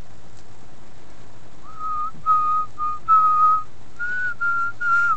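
A person whistling a tune: a run of short, clear notes that starts about two seconds in and steps up and down around one pitch, over a steady hiss of rain on the van.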